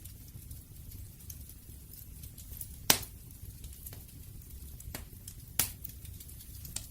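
Wood fire crackling over a low steady rumble, with small ticks and a few sharp pops: the loudest about three seconds in, two more near five and five and a half seconds.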